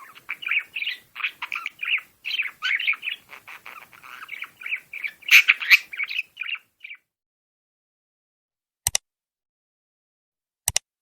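Small birds chirping and squawking in quick, busy succession for about seven seconds, then stopping; two sharp clicks follow, one about nine seconds in and one near the end.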